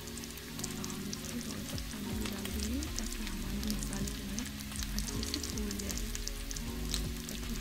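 Masala frying in hot oil in a kadhai, sizzling with a fast, continuous crackle, over background music.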